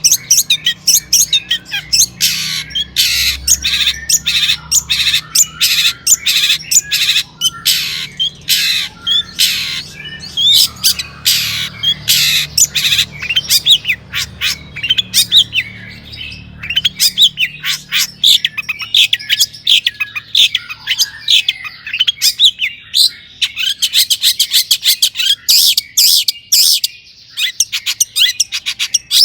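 Long-tailed shrike (cendet) singing hard: a loud, rapid run of harsh squawks and chirps with mimicked notes. From about halfway through it turns into faster, higher chattering.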